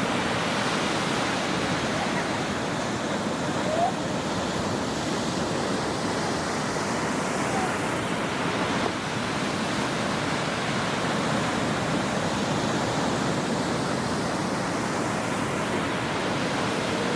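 Ocean waves washing onto a shore in a steady, unbroken rush of noise, with a short faint rising chirp about four seconds in.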